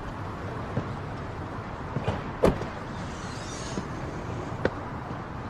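A steady low background rumble with a few soft clicks and taps scattered through it.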